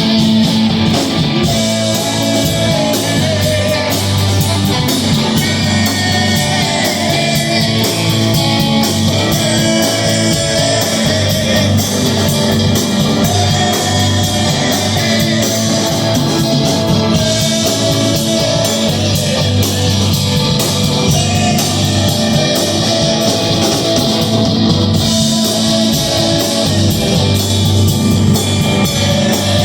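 Rock band playing loud, steady rock music with guitars and a regular drum beat.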